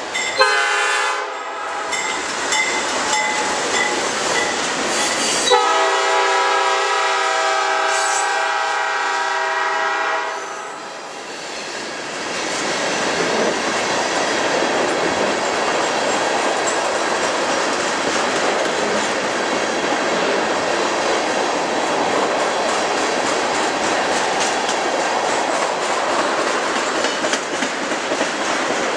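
Canadian National diesel freight locomotive sounding its horn for about ten seconds, in two long blasts, as it passes. The horn then gives way to the steady rumble and clickety-clack of loaded tank cars rolling by.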